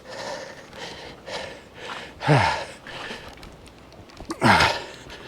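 A man breathing hard and out of breath, with two short voiced sighs that fall in pitch, about two seconds and four and a half seconds in.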